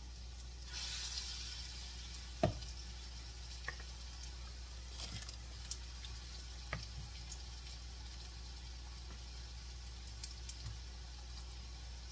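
Battered hearts-of-palm pieces frying in shallow oil in a cast-iron skillet: a faint, steady sizzle. A handful of sharp clicks and taps cut through it, the loudest about two and a half seconds in, over a constant low hum.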